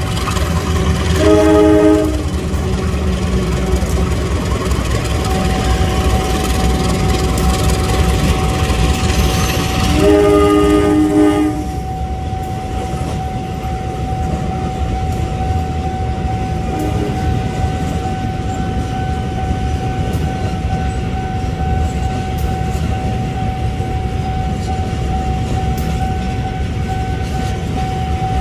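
Train running through a station with a steady rumble; its horn sounds twice, a short blast about a second in and a longer one around ten seconds in. A thin steady high tone runs from about five seconds on.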